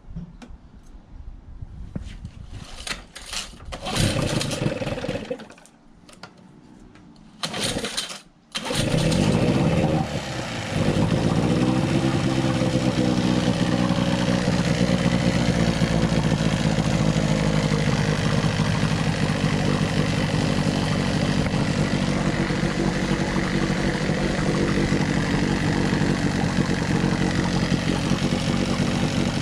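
Evinrude two-stroke outboard motor being pull-started cold, on choke, in a test tank: a few short pulls and sputters, then it catches about eight seconds in. It revs and drops back, then settles into steady running.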